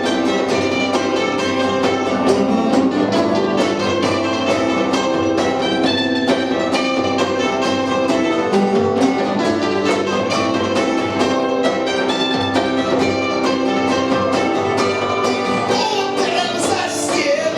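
Live punk band playing a song: guitars and drums, loud and continuous.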